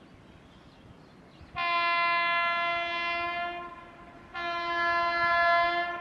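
Two long horn blasts on one steady pitch, each about two seconds, with a short gap between them.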